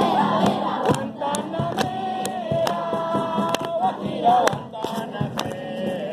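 A group of voices singing and calling out together over a steady beat of sharp claps, with a few notes held for about a second in the middle.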